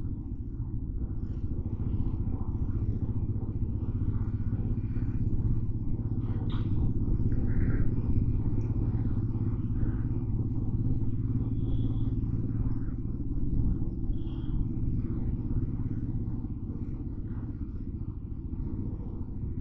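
Motorcycle engine running steadily while under way, with a few faint short high tones partway through.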